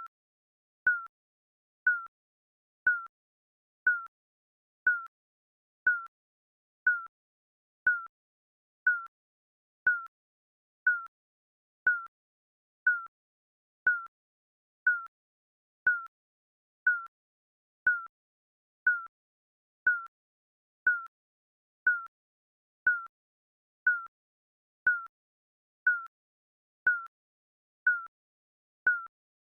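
Digital countdown timer beeping: a short, high electronic beep exactly once a second, each one dying away quickly, marking off the seconds.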